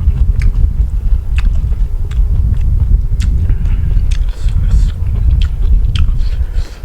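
A person chewing and biting food close to the microphone, with short crisp clicks and crunches at irregular intervals over a heavy low rumble.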